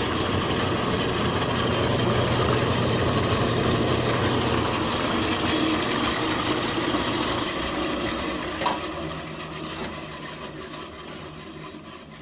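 Homemade wooden 12-inch bandsaw running with no load, its electric motor humming and the wheels and blade whirring, the blade tracking centred on the wheel. About seven seconds in the motor hum stops and the saw winds down, getting gradually quieter, with a single click near nine seconds.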